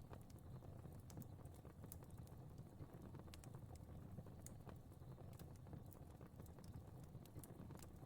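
Fire crackling softly in a fireplace: irregular small pops and snaps over a low steady rumble of burning.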